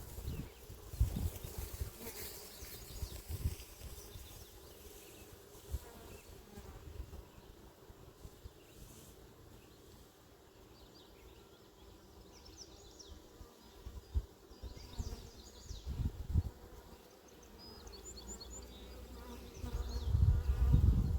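Honeybees buzzing steadily around an opened hive. Low rumbling thumps on the microphone come and go, loudest near the end.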